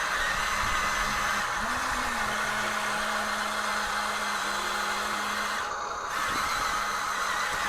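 Small electric motors and gearboxes of radio-controlled construction models (Huina excavator, bulldozer and dump truck) whirring steadily, their low hum rising and falling in pitch now and then as the machines are driven.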